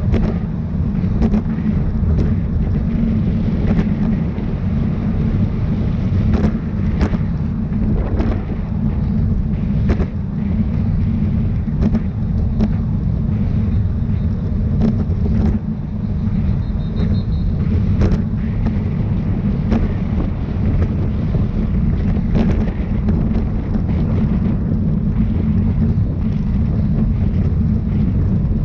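Wind rumbling on the microphone of a bicycle-mounted or rider-worn camera at racing speed, with scattered short clicks and knocks from the bike over the road.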